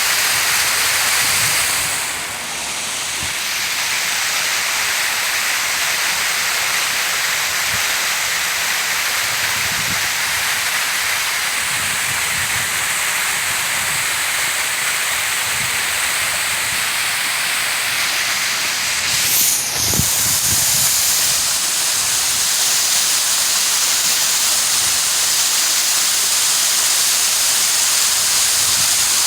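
Steady rush of falling, splashing water from a park fountain's water feature, dipping briefly about two seconds in and swelling for a moment near twenty seconds.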